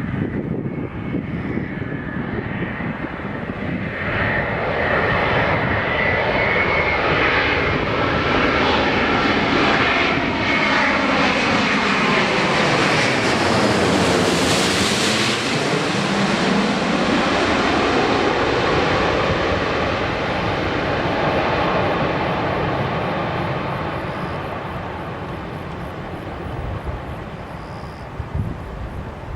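Airbus A350-900 jet airliner's Rolls-Royce Trent XWB engines on landing approach, passing by: a jet roar with a high fan whine that builds over several seconds, peaks about halfway through, then fades as the aircraft moves away.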